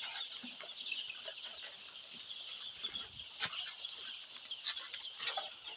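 A brooder full of five-day-old layer chicks peeping continuously, many high cheeps blending into a steady chorus, with a few brief clicks over it.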